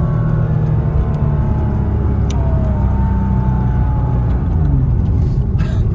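Porsche Cayman S sports-car engine running under way, with a steady rumble of engine and road noise and the engine note climbing a little partway through.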